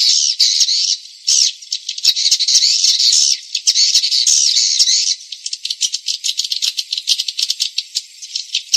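Recorded swiftlet calls, the 'panggil' lure sound played to attract swiftlets: dense, high buzzy twittering broken by brief gaps, turning to rapid clicking chirps from about five seconds in until near the end, when the dense twittering resumes.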